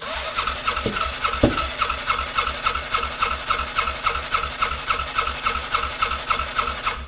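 Polaris Ranger engine cranking over on its electric starter in a steady rhythm of about four to five beats a second, with two louder thumps about a second in. It turns over but does not catch, and it stops abruptly.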